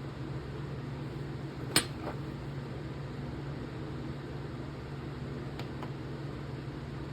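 A single sharp metallic clink about two seconds in, a fainter one right after, and two faint ticks later, from small metal folding-knife parts and tools being handled during reassembly, over a steady low hum.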